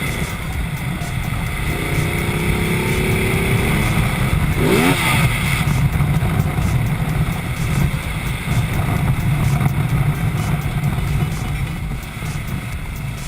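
Ducati Multistrada motorcycle on the move, its engine running under a heavy low rush of wind and road noise, pulling up slightly in pitch a few seconds in. About five seconds in there is a brief rising-and-falling sweep.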